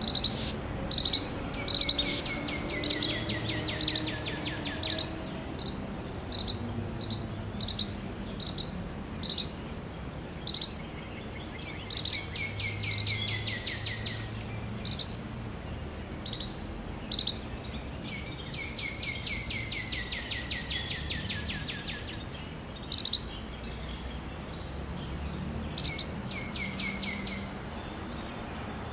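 Outdoor songbirds: a string of short high chirps about once a second, and four rapid trilled songs of a few seconds each, over a steady high insect drone.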